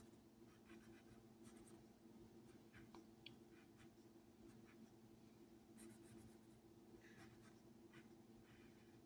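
Faint writing: short scratchy strokes of a pen or marker, spaced irregularly, over a steady low hum.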